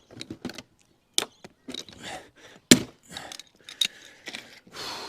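Irregular knocks and clicks, like things being handled and set down on a hard surface, with one sharp crack a little past the middle and a breathy noise near the end.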